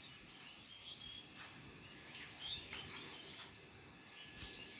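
A small bird's faint, quick run of high chirps, about seven a second for roughly two seconds, starting about one and a half seconds in.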